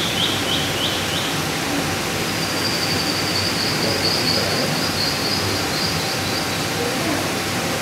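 A small bird chirping a run of short, high repeated notes, about three or four a second, in the first second and again from about two and a half seconds in, over a steady hiss of background noise.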